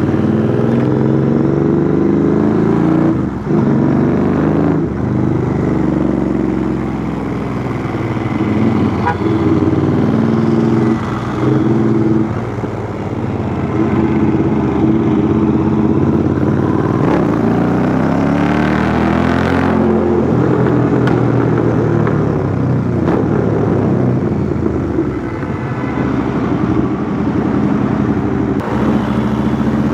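Royal Enfield Interceptor 650's parallel-twin engine through a custom 2-into-1 exhaust, riding in city traffic: the exhaust note rises and falls as the rider accelerates, shifts gear and rolls off the throttle.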